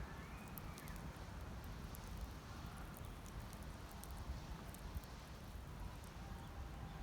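Wood campfire burning, with scattered small crackles and pops over a low steady rumble.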